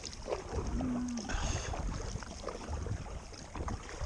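Kayak on open water, with water and hull sounds and scattered light knocks. Wind rumbles on the microphone throughout. A brief low hum comes about a second in.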